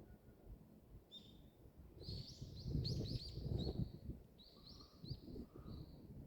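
A small songbird singing a quick series of short, high chirps, starting about a second in and stopping shortly before the end, over a low, uneven rumbling noise.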